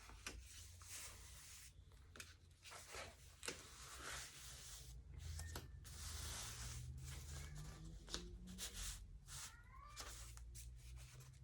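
Faint paper handling: the heavy glued magazine-paper pages of a handmade journal being turned, with soft rustles and scattered small clicks.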